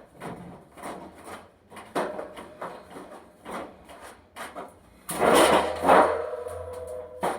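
Repeated short scraping and rubbing strokes, then a louder sliding scrape about five seconds in that carries a steady squeaky tone for about two seconds.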